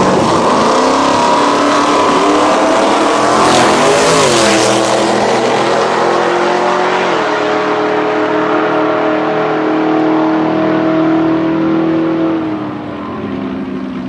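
Drag race car engine running hard down the strip. Its pitch drops sharply at two gear changes, about 4 and 7 seconds in, and it fades away near the end.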